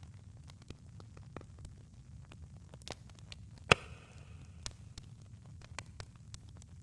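Campfire crackling: scattered sharp pops and snaps over a low steady rumble, with one loud pop a little past halfway.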